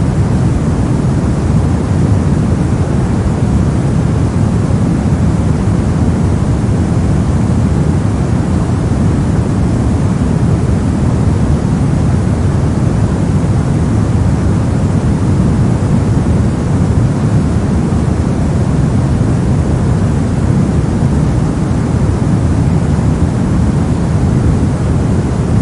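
Brown noise: a steady, unbroken rumbling hiss weighted toward the low end, with no tones or separate events.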